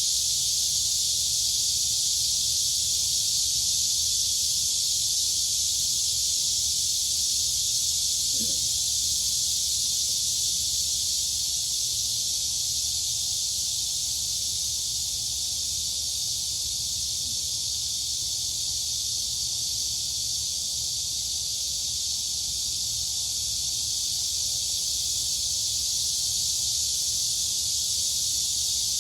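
Crickets and cicadas calling together in a dense, steady chorus, an even high-pitched buzz with no breaks.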